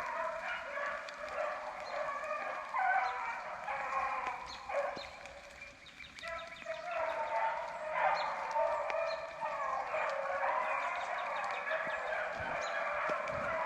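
A pack of beagles baying together as they run a rabbit, several voices overlapping. The chorus thins briefly about five seconds in, then swells again.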